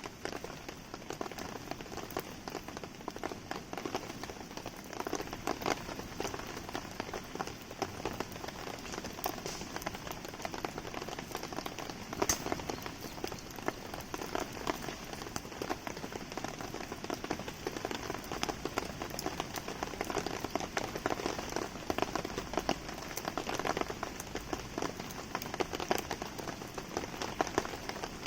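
Steady rain pattering, mixed with small pops and crackles from a wood campfire.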